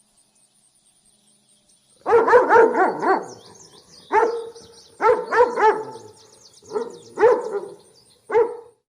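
An animal giving a run of loud, pitched yelping barks, starting about two seconds in and repeating in short groups six or seven times.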